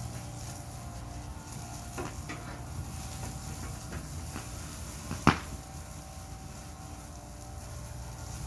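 Wood fire burning: a steady low rumble with a few faint crackles, and one sharp loud pop a little past five seconds in.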